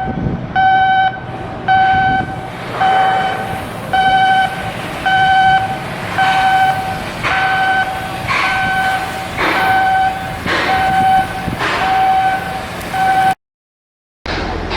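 Electronic alarm beeping about once a second, a steady high tone with overtones, over a rushing mechanical background noise. It cuts off abruptly near the end.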